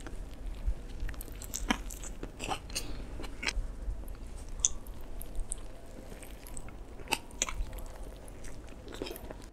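Close-miked biting and chewing of a toasted bread roll with fillings, with many irregular crisp crunches and no words.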